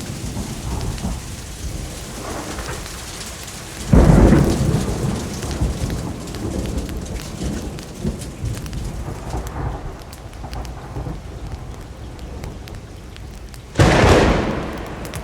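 Steady rainfall with two claps of thunder, one about four seconds in and one near the end, each starting suddenly and rolling away over a second or two.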